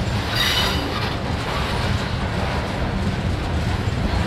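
Freight train of covered hopper cars rolling slowly past with a steady low rumble. About half a second in, a brief high squeal of steel wheels on the rail.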